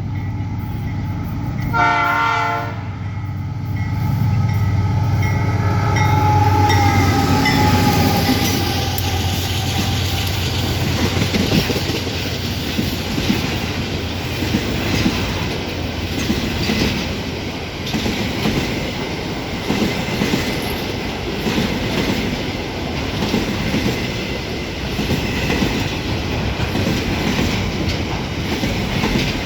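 Freight train passing fast, led by two GE AC44i diesel-electric locomotives. A short horn blast comes about two seconds in, and the locomotives' drone falls in pitch as they go by. Then a long string of container wagons rolls past with a rhythmic clickety-clack of wheels on the rails.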